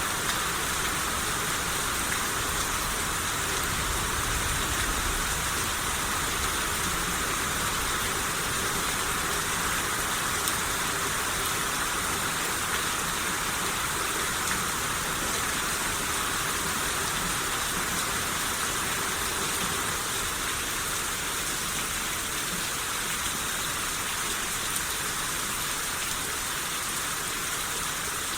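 Steady rain shower falling, an even hiss of many drops.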